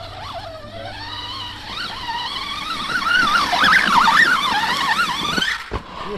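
Brushless electric motor of a 4S RC monster truck whining under throttle, its pitch rising and falling as the driver works the trigger. The whine grows louder through the middle and cuts off suddenly near the end.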